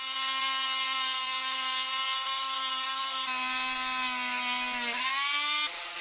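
An electric power tool switches on and runs with a steady whine over a grinding hiss. About five seconds in its pitch sags and then climbs back, and just after that its tone changes.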